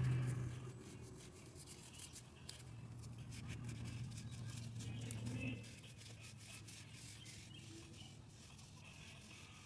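Faint, scratchy brush scrubbing on the grinder's metal burr, many small irregular strokes, over a low steady hum that stops a little past halfway.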